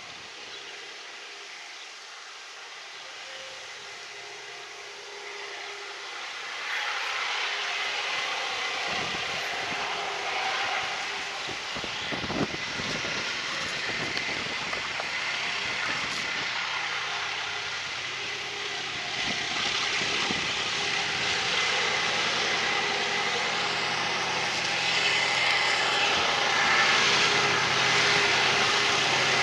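Alsthom diesel-electric locomotive working hard up a gradient with a loaded grain train, its engine drone growing louder as it approaches, with a sharp rise about seven seconds in. A few brief knocks come around twelve seconds in.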